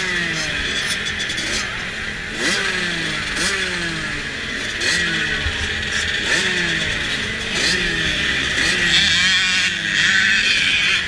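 Motocross bike engines revving over and over. Each rev rises quickly in pitch and falls away more slowly, about once a second.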